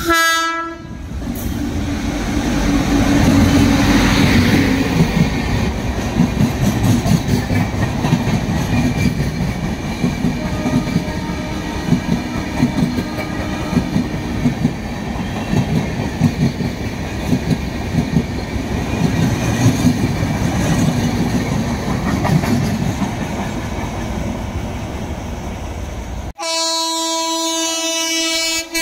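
An electric locomotive's horn dies away in the first second. A passenger train then passes close by at speed, a steady rumble of wheels on rail with clickety-clack over the joints for about 25 s. Near the end another approaching electric locomotive sounds a long, steady horn.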